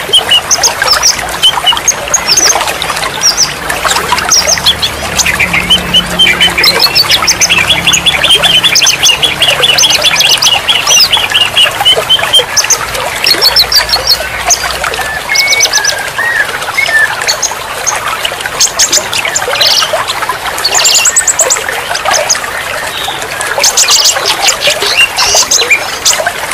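Several songbirds chirping and trilling at once in fast runs of short, high notes, over the steady splash of running water.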